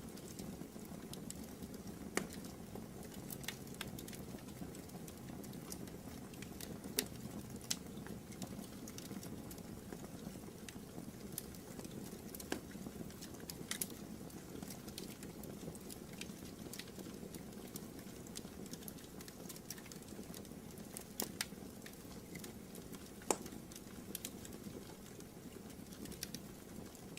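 Wood fire burning in a fireplace: a steady low rush with irregular sharp crackles and pops scattered through it.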